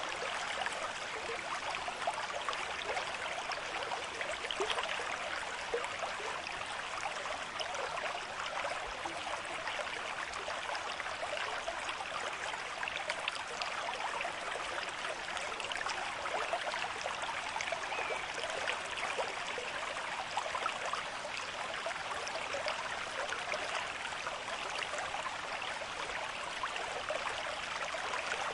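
Stream of moderate flow running over rocks, a steady babbling and trickling of water.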